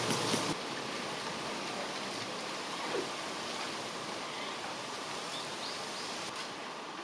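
A steady rushing noise without any tone. It takes over from a louder sound with scattered clicks at a sudden cut about half a second in.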